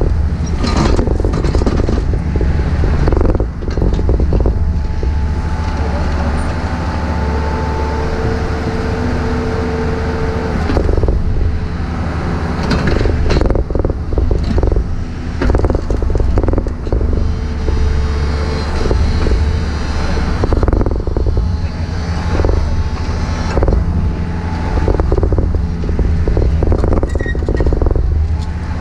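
Takeuchi TB153FR compact excavator running under load, its engine a steady low rumble, with repeated clanks and scrapes from the bucket and steel tracks, and a brief hydraulic whine about a third of the way in.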